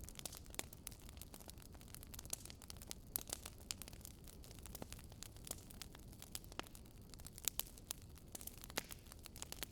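Wood fire burning in a fireplace, crackling with irregular sharp pops and snaps over a faint low rumble.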